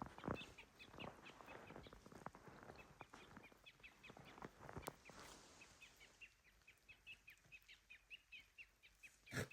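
Faint, rapid chirping of small birds, several short high notes a second, with scattered knocks and rustles in the first few seconds and one louder thump near the end.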